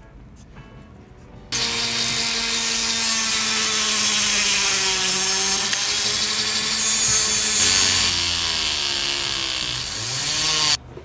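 A small high-speed electric motor runs for about nine seconds, starting and stopping abruptly. Its whine dips and wavers in pitch under a loud hiss.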